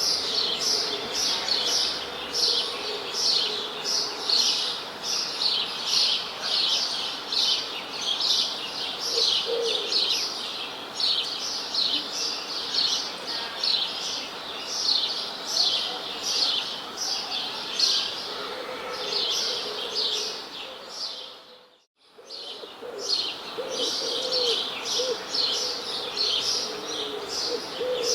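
Birds chirping in a dense, continuous chorus of short, high, falling chirps, several a second, with a few lower calls about ten seconds in and again near the end. About two-thirds of the way through, the sound fades briefly to near silence and comes back.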